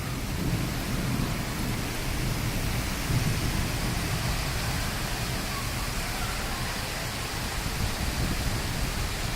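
Heavy rain pouring down in a steady, unbroken downpour, with a deep rumble underneath.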